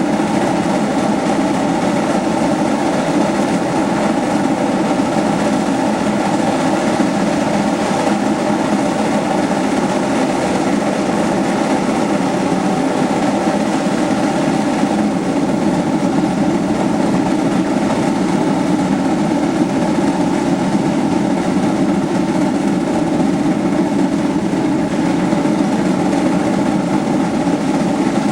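Heisler #91, a geared steam locomotive, and the passenger train it is pushing, running with a steady, even sound that doesn't let up.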